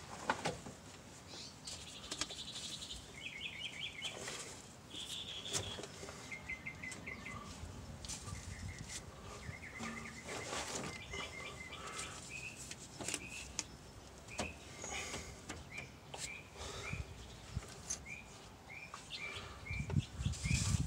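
Birds chirping in short, repeated trills, with a few light clicks from the work at hand and a louder rustle near the end.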